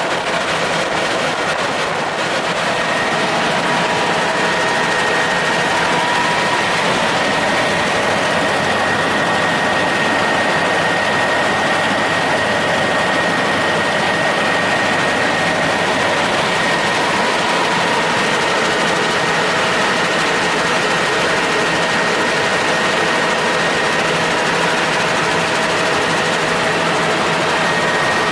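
Helicopter in flight: steady engine and rotor noise with a constant high whine over it.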